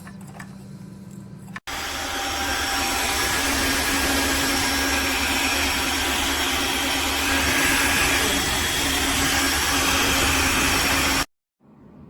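Wet-dry floor vacuum's motor running steadily with a constant whine. It cuts in abruptly about a second and a half in and stops dead near the end.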